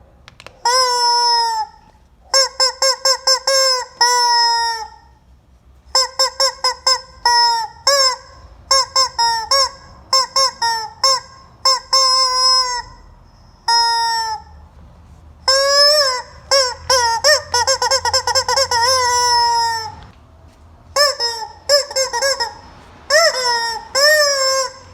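Rubber chicken squeeze toy squawking as it is squeezed again and again: runs of quick short squeaks mixed with longer drawn-out squawks whose pitch bends, in clusters separated by short pauses.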